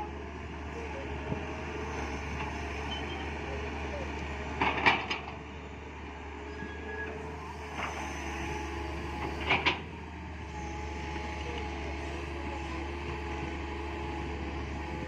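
Hydraulic excavator's diesel engine running steadily while digging, with two short bursts of knocks about five seconds apart, the loudest sounds here.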